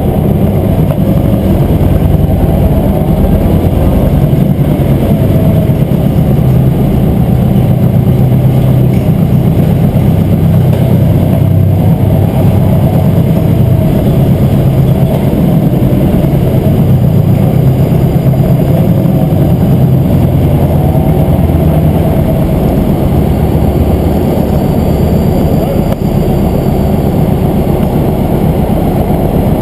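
Motorcycle running steadily while being ridden along the road, a continuous low engine drone.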